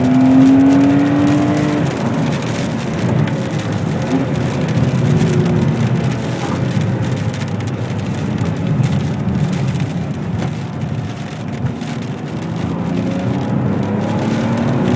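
Ferrari 599 GTB Fiorano's Enzo-derived V12 engine pulling up through the revs for about two seconds, then running at lighter load under a steady hiss of tyres on wet road. The revs climb again near the end.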